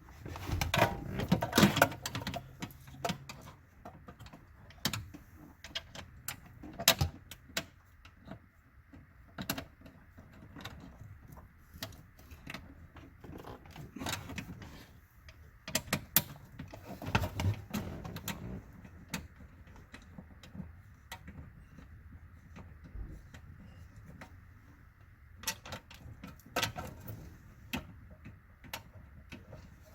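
Irregular clicks, knocks and light metallic clatter of hand tools and parts being handled, busiest near the start and again about halfway through.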